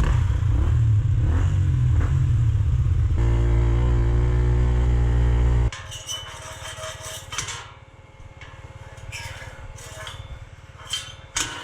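A 125 cc dirt bike engine runs at steady revs with heavy wind rumble, then cuts off abruptly just past the middle. After that it is much quieter, with scattered short metallic clinks and clatters.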